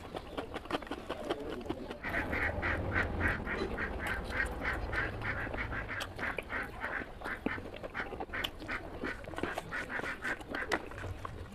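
Close-up eating sounds: wet chewing and lip-smacking, with a quick, even run of smacks starting about two seconds in.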